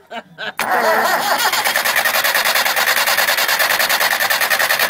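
A David Brown diesel tractor being cranked over by its starter motor, hot-wired by bridging the starter terminals with a dipstick. The cranking cuts in suddenly about half a second in and goes on with a fast, even pulsing; the engine turns over but does not catch.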